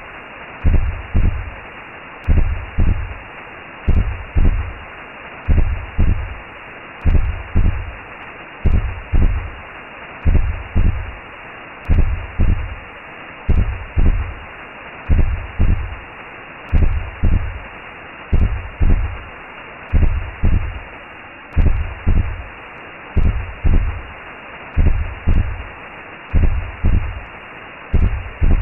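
Recreated womb sound: a steady heartbeat of low double thumps, about 70 a minute, over a constant whooshing noise like blood flow heard from inside the belly.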